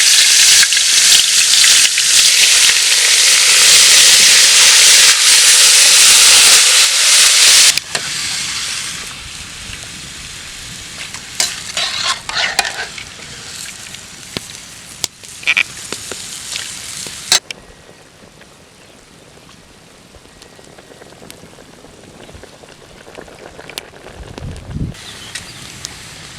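Mutton pieces sizzling loudly in hot oil in a pan. About eight seconds in the sizzle drops suddenly to quieter frying with intermittent clicks and scrapes of stirring, and it gets softer again after about seventeen seconds.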